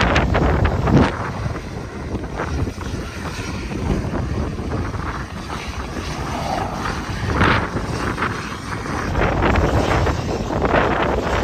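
Strong gusting wind buffeting the microphone, a rough low rumble that swells and eases, heaviest near the start and again for the last couple of seconds.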